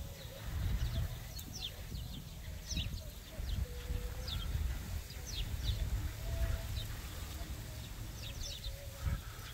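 Small birds chirping, many short quick notes that drop in pitch, scattered through the whole stretch, over the low rumble of wind buffeting the microphone.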